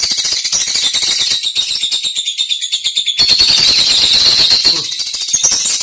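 Many lovebirds chattering at once: a loud, dense, continuous shrill twittering, a little louder from about three seconds in.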